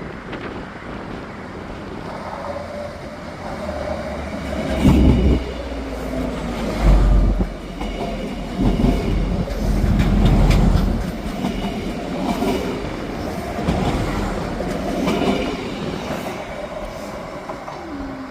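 Stadler GTW 2/6 diesel-electric railcar pulling away from a station: engine running and rumbling, with wheels clacking over rail joints. It is loudest in the middle and eases off near the end as the train moves away.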